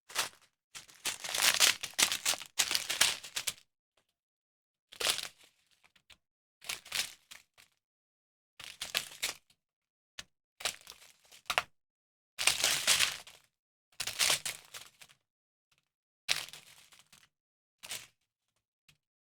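Plastic packaging from a diamond painting kit crinkling and crackling as it is handled, in about a dozen short irregular bursts with pauses between.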